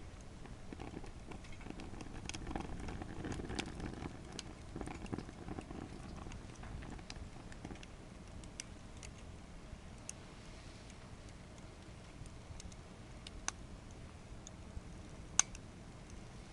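Wood fire burning in a small secondary-combustion stove: a low rush of flames that swells in the first half, with scattered crackles and two sharp pops near the end, the second the loudest.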